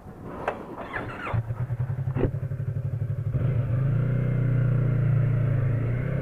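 Motorcycle engine running, its low note coming in about a second in and growing louder as the bike picks up speed, then holding steady.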